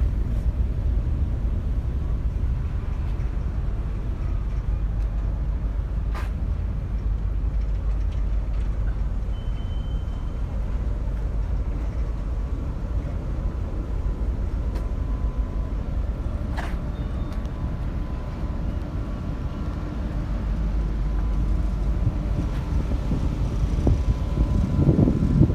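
Steady low rumble of a ferry underway, with a faint steady tone above it and two sharp clicks, one about a quarter of the way in and one past halfway. The rumble swells briefly near the end.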